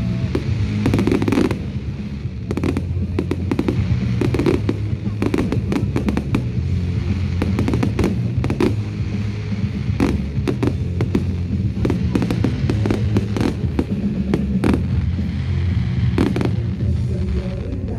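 Fireworks display: many rapid bangs and crackles from bursting shells, coming thick and fast throughout, over music with a deep low line played alongside.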